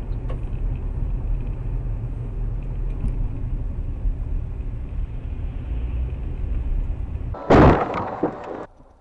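A car driving with a steady low rumble of engine and road noise. About seven and a half seconds in comes a sudden loud collision impact, which fades out within about a second.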